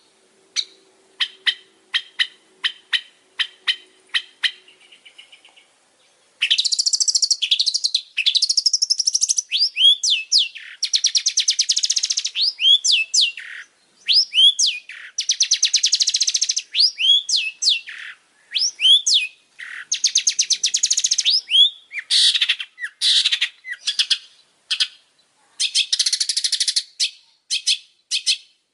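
Long-tailed shrike singing: first a string of sharp, evenly spaced ticking calls, about three a second, then after a short pause a loud, fast, scratchy chattering song of rapid notes with sweeping slurs, delivered in phrases of one to two seconds with brief breaks between them.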